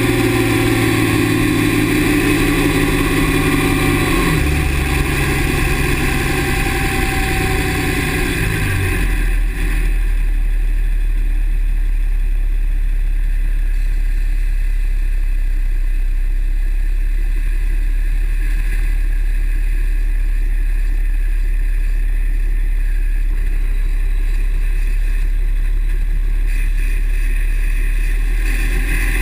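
Dodge 6.7 L Cummins turbo-diesel running. For the first nine seconds or so, several steady engine tones shift in pitch, with a brief glide. It then settles into a steady low drone.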